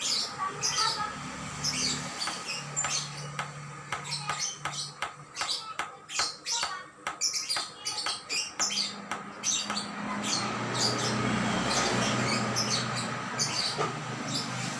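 Songbirds chirping in quick, short, repeated notes, with a low hum underneath that comes and goes.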